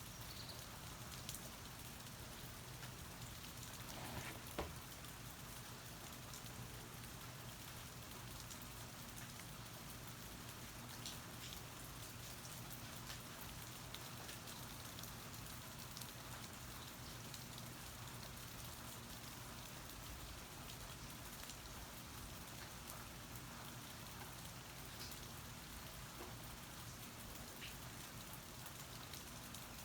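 Steady rain falling, heard from under a porch, with scattered drips and taps and one louder tap about four and a half seconds in.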